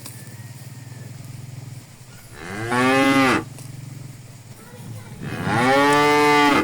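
Cows mooing: two loud moos, one about two and a half seconds in lasting about a second, and a longer one from about five seconds in, each rising then falling slightly in pitch, over a low steady hum.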